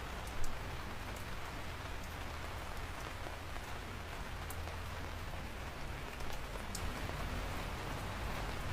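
Steady rain falling, an even hiss with a few sharp drop ticks now and then and a brief louder spike about half a second in.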